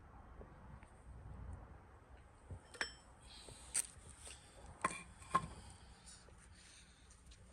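Metal parts clinking together four or five times, a couple of them leaving a short metallic ring, as the harmonic balancer and its hardware are handled.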